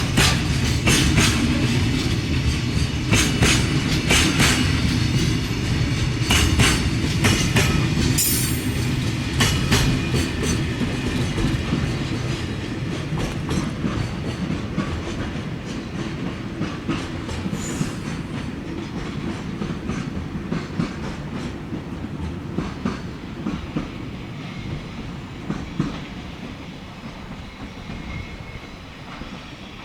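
A train running past on the line, its wheels clacking rhythmically over the rail joints with a low rumble, loudest at first and fading away over the second half as it moves off.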